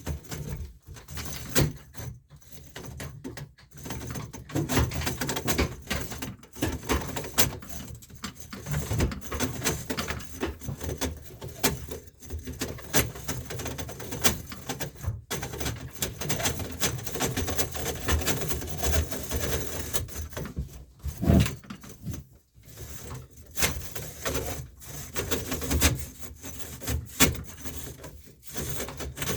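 Hand-cranked drain snake being turned and fed down a sink drain: the coiled metal cable scraping and rattling in its drum and the pipe, with irregular clicks and rubbing.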